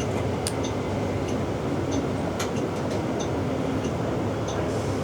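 Inside a city bus: steady engine and road noise with a low hum, and a regular light ticking about once or twice a second.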